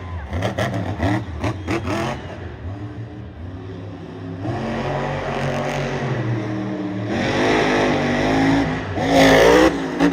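Monster truck engine revving hard, its pitch climbing twice, with a quick run of sharp knocks in the first two seconds.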